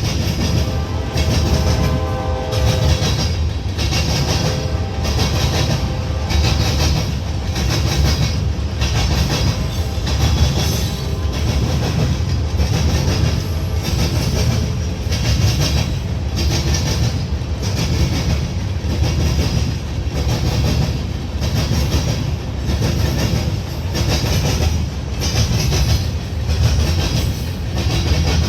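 Freight train passing close by: the locomotive horn's chord fades out about two seconds in, then the cars' wheels rumble and clack over the rail joints in a steady, regular rhythm.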